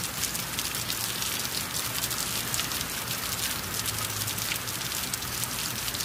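Rain sound effect: rain falling steadily, a dense even hiss made of countless fine drop ticks, strongest in the upper range.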